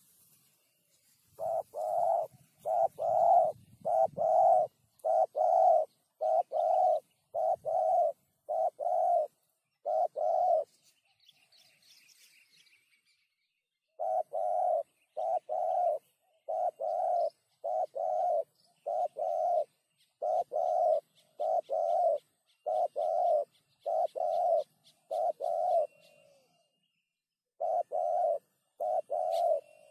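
Spotted dove cooing: a long run of evenly spaced low coos, about one and a half a second, broken by a pause of a few seconds near the middle and a shorter one near the end. Faint high chirps of small birds behind.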